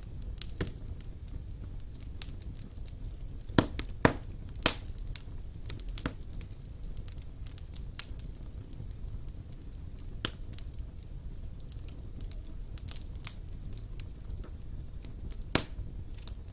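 Wood fire burning in a fireplace: a steady low rumble and hiss with irregular sharp crackles and pops, a cluster of loud pops a little before the middle and another loud pop near the end.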